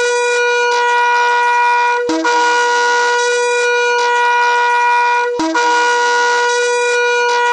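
Shofar blown in long, steady, single-pitch blasts of about three seconds each. There are short breaks about two and five seconds in, and each new blast opens on a brief lower note before jumping up to the held pitch.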